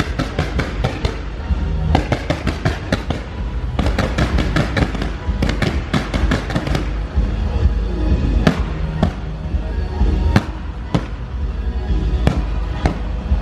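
Fireworks going off over the show's music: fast runs of sharp pops and bangs for the first several seconds, then single louder reports every half second to second and a half, over a deep steady rumble.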